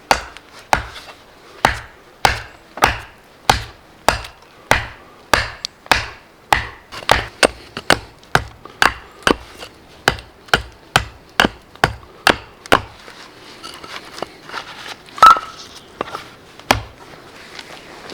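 Hand tool striking wood in a steady series of sharp chopping blows, about two a second and quickening slightly, then a pause, one louder strike and one last blow.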